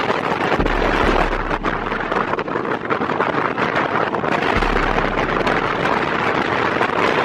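Wind buffeting the microphone, with a low rumble that comes and goes, over a loud, steady haze of vehicle and street noise.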